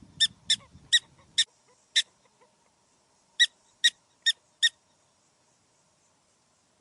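A small animal's short, high-pitched chirps, about ten of them: a quick run of six, a pause of about a second and a half, then four more.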